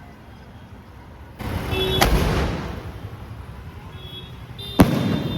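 3.25-inch aerial firework shells going off: two sharp bangs about three seconds apart, each with a sudden rush of noise just before it. The second bang is the louder.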